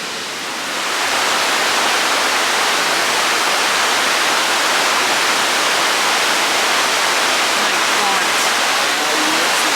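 Loud, steady rush of the Zambezi's water pouring over Victoria Falls, swelling up about a second in and then holding even.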